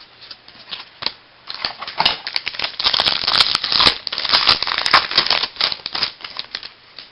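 Baseball trading cards and their packaging handled up close: a dense run of quick papery clicks and crinkles, loudest in the middle and tailing off near the end.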